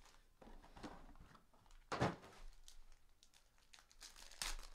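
Faint handling of trading-card packs and boxes on a table, with one sharp thunk about two seconds in and a couple of softer knocks near the end.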